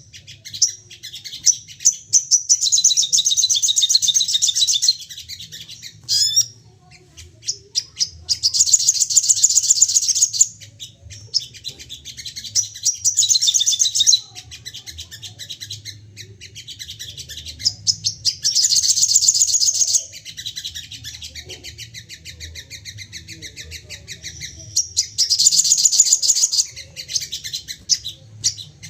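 Sogon songbird singing in agitated, rapid-fire bursts ('nembak'): about five loud bouts of fast, high chattering song, each a couple of seconds long, with scattered chirps between them, over a faint low hum. This is the worked-up song that keepers play to provoke other sogon into singing.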